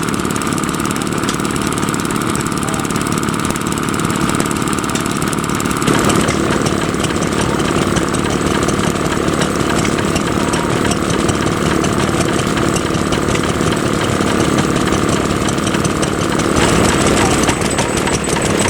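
Vintage stationary engines running steadily. The engine sound changes abruptly about six seconds in and again near the end.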